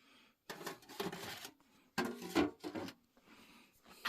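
Two scraping, rubbing handling noises of about a second each, with a fainter one near the end.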